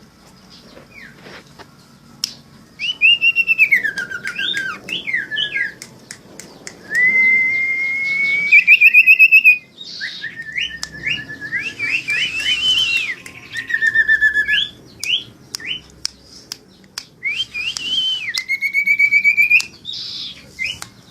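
Tame pet sirtu bird singing, actively and loudly, in phrases of clear whistled notes. Long sliding whistles, some held level and some wavering, come with quick high chips in between.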